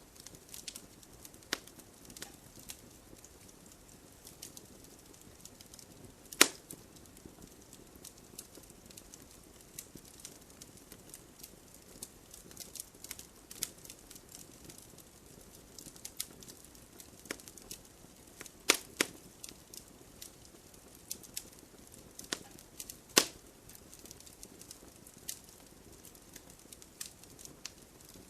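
Wood fire in a fireplace crackling, with irregular small snaps and three loud pops spread through it.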